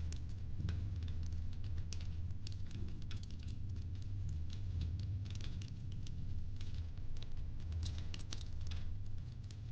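Wood fire crackling in a fireplace: irregular small snaps and pops, thicker in clusters, over a steady low rumble.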